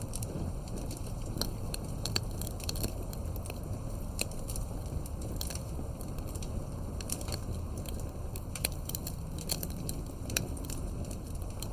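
Wood bonfire crackling, with frequent sharp, irregular pops over a steady low rumble of burning.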